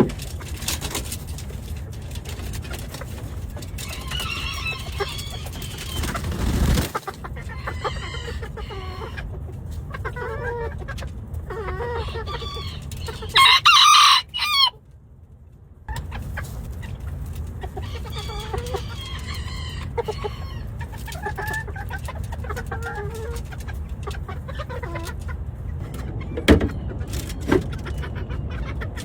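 Chickens clucking and calling, with a rooster crowing loudly about halfway through. A few sharp clicks or knocks near the end.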